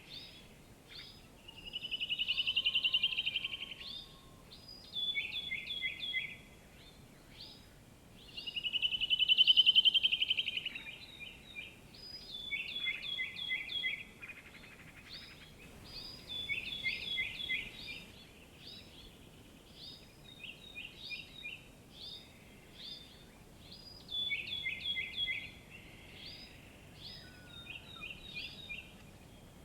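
Songbirds singing: repeated quick series of short, high, down-slurred notes, with two louder rapid trills, one about two seconds in and one about nine seconds in.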